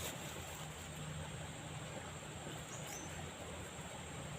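Steady hiss of fast-flowing river water, with a brief faint high chirp about two and a half seconds in.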